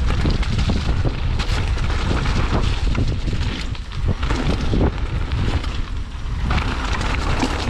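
Heavy wind buffeting the microphone, with a rapid clatter of knocks and rattles from a mountain bike running down a rough downhill trail.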